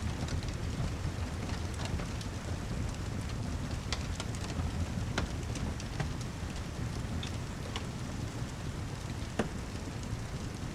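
Steady heavy rain with a deep low rumble beneath it, and a fireplace crackling over it: a handful of sharp single pops, the loudest about nine seconds in.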